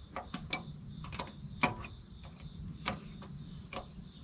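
Steady high-pitched chirring of insects, with irregular light clicks and taps scattered through it.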